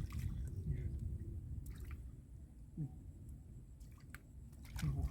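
Faint splashing and squelching of water and mud as hands grope in a shallow muddy pool, with a few soft drips and clicks over a low rumble.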